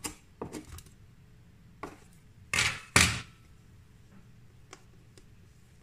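Light clicks and knocks of kitchen utensils being handled on a work surface while dough is shaped, with a louder scrape ending in a sharp knock about three seconds in.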